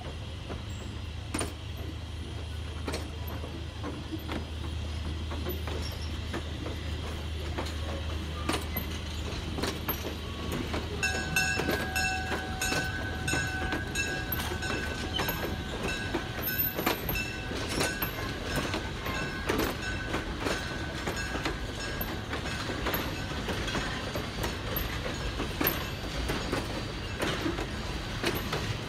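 Passenger coaches of a steam excursion train rolling slowly past, their wheels clicking over the rail joints. A steady high wheel squeal comes in about eleven seconds in and dies away about ten seconds later.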